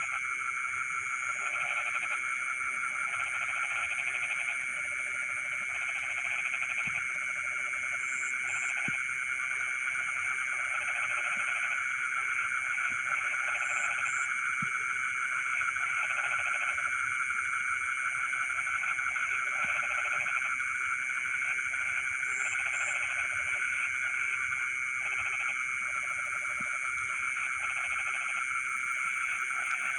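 Dense night chorus of frogs in a rice paddy: a continuous high-pitched trilling drone with lower pulsing calls that come in bursts of about a second, over and over at uneven intervals.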